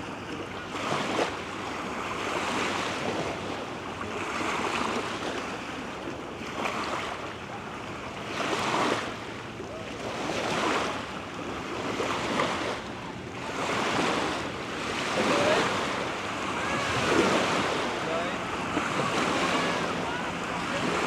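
Gusty wind on the microphone and small waves lapping at a reservoir shore, as a rushing noise that swells and eases every couple of seconds.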